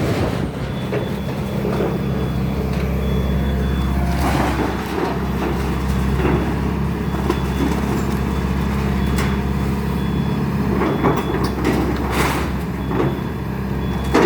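Excavator's diesel engine running steadily, with scattered crunches and knocks of debris being broken and moved during demolition; sharper impacts about four seconds in and again near the end.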